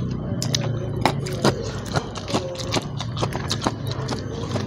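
Close-miked chewing: irregular wet clicks and smacks of the mouth, a few a second, over a low steady hum.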